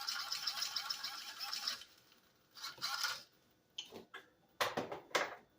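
A fast, even mechanical rattle that stops about two seconds in, followed by a few short rattles and clicks.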